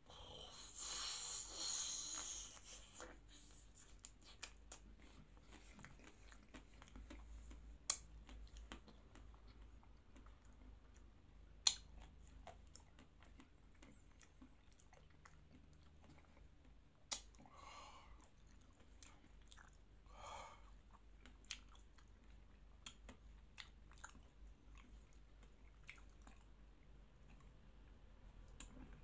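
Close-up eating sounds of a chocolate-coated Magnum ice cream bar: a crunchy bite through the chocolate shell in the first couple of seconds, then quieter chewing with a few sharp mouth clicks.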